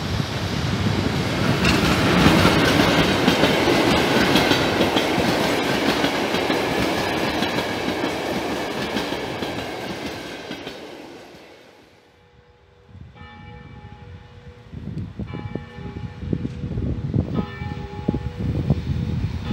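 A PKP Intercity EP07 electric locomotive hauling passenger coaches passes at speed, wheels running on the rails. The noise builds to a peak about two seconds in, then fades away over the next ten seconds. After that comes a quieter rumble of another train at the station, with steady high tones that sound in short stretches.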